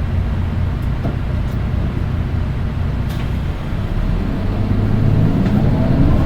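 Nissan Diesel Space Runner RM820 city bus heard from inside: steady diesel engine drone with road noise, growing louder over the last couple of seconds as the bus pulls harder, with a faint high whine rising near the end, the shrill engine note peculiar to this particular bus.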